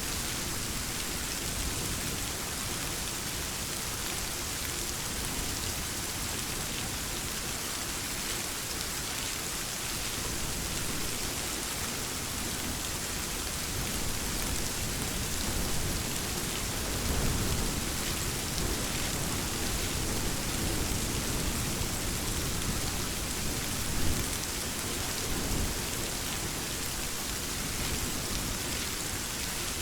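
Steady rain falling, with a low rumble of thunder swelling through the middle and a brief louder crack about two-thirds of the way in.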